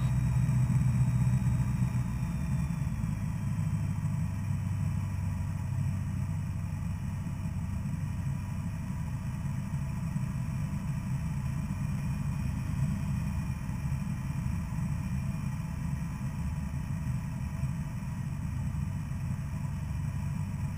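Single-engine Cessna's piston engine and propeller droning steadily, heard from inside the cabin; the pitch drops slightly about two seconds in.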